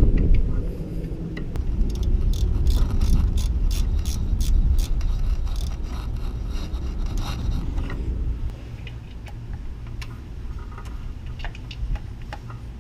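Hand tools clicking and scraping on metal engine parts during reassembly, with a quick run of clicks from about two seconds in until about eight seconds, over a low steady hum.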